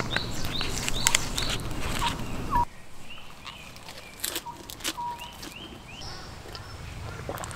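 A bird calling over and over in short rising notes, about three a second, with a few sharp clicks among them.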